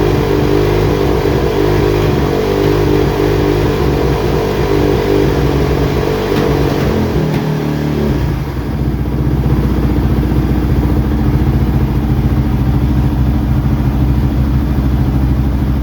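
Kawasaki KX450F's single-cylinder four-stroke motocross engine running with its freshly rebuilt top end. It runs at a fast idle, then about halfway through drops to a lower, steady idle.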